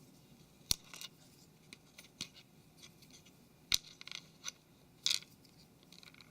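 Small plastic phone parts being handled, giving a few sharp clicks and light scratches, the loudest about a second in, near the middle and near the end.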